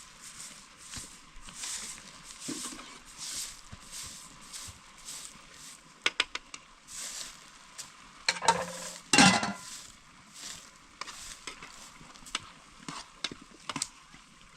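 Food frying in a pan while it is stirred with a utensil, the stirring strokes repeating at a steady rhythm. A few sharp clinks come about six seconds in, and there is a louder burst of clatter around eight to nine seconds.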